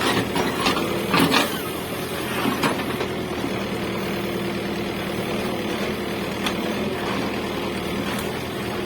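Caterpillar 424B2 backhoe loader's diesel engine running steadily, with a few short knocks in the first couple of seconds.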